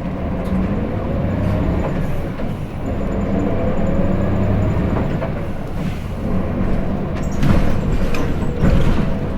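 Hino Blue Ribbon City diesel city bus heard from inside the cabin while under way: the engine's tone rises in pitch, drops back about two and a half seconds in, and climbs again, as when the bus accelerates through its gears. Over the last few seconds there are several sharp knocks and rattles from the bus body.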